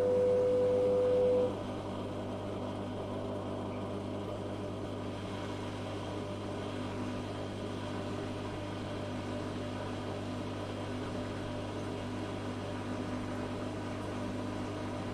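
Zanussi FA623 washing machine running: a steady high whine cuts off about a second and a half in, leaving a steady even hum.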